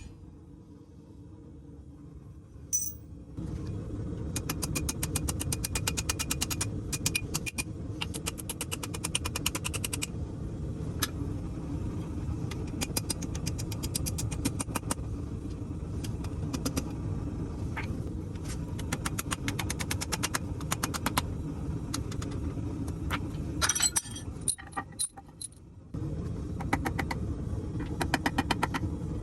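Metal forging: a steady low roar with rapid, regular metallic hammer taps over it. The roar and tapping drop away briefly about 24 seconds in, leaving a few separate clinks, then resume.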